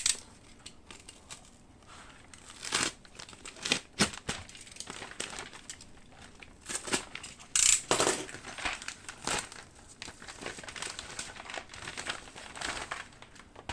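Packaging crinkling and rustling by hand in irregular short bursts, the loudest about three, four and eight seconds in, as a model ship kit box is unpacked.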